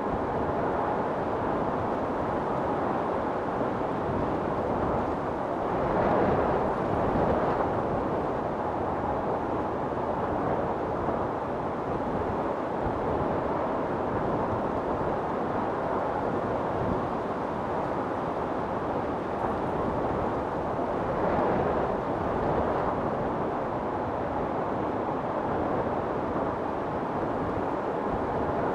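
Wind storm blowing hard and steadily, with gusts swelling twice, about a fifth of the way in and again about three-quarters through.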